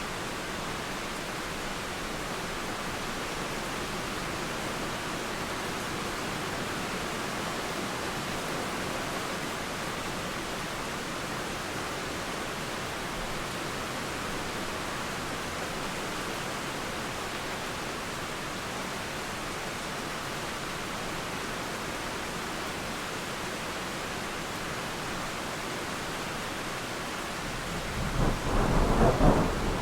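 Steady rain falling, an even hiss, with a loud low rumble of thunder rolling in about two seconds before the end and building.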